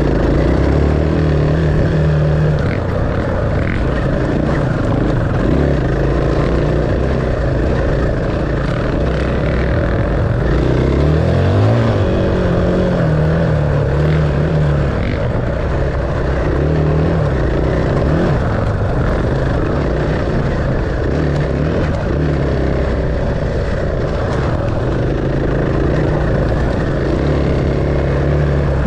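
Dirt bike engine running under way, its pitch rising and falling with the throttle, with a sharp rise about twelve seconds in.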